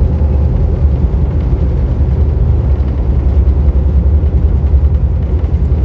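Vande Bharat Express electric train running, a steady low rumble with no separate knocks or pauses.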